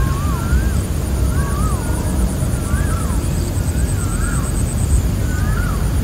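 A bird repeating a short whistled phrase of rising and falling notes about once a second, over a high, even, pulsing insect trill. A loud low rumble runs underneath.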